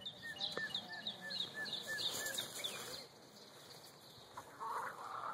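Birds chirping in a fast run of short, falling notes, about three a second, for the first three seconds, with soft low chicken clucking beneath. Near the end there is a brief rustle.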